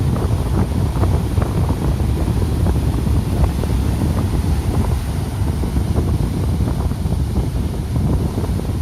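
Strong, gusty storm wind buffeting the microphone over the low rumble of heavy surf, the gale and high seas ahead of an approaching typhoon.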